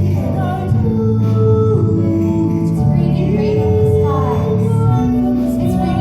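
A female voice singing a slow pop ballad with held notes over a band backing.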